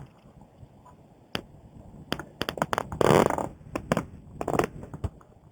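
Scattered clicks and a brief rubbing scrape as hands work the scooter's fuel tap to turn the gas on, with the engine not yet running.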